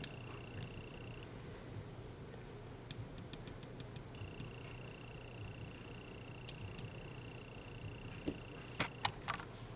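A quick run of about eight small, light clicks, then a few scattered clicks near the end, over a faint steady high-pitched tone.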